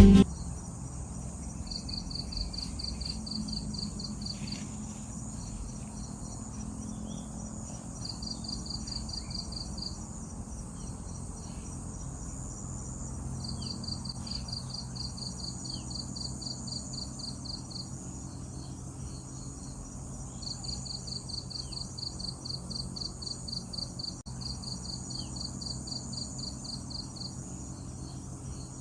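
Insects chirping in the countryside at dusk: runs of a fast pulsed trill, about six chirps a second and a few seconds long, starting and stopping over a steady high-pitched insect buzz, with a low rumble underneath.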